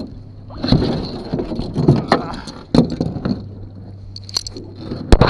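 River water splashing and sloshing in uneven bursts as someone wades through it, with a few sharp knocks.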